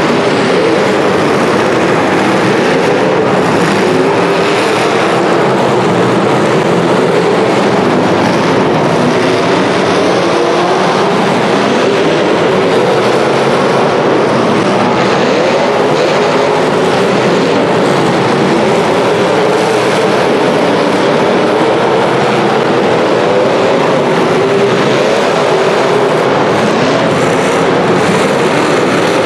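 Several demolition derby cars' engines revving hard, their pitch rising and falling continuously.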